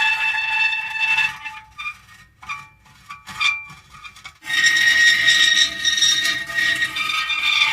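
Metal creaking: a drawn-out squealing creak that breaks off about a second in into a few short squeaks and knocks, then a loud sustained creak returns about four and a half seconds in.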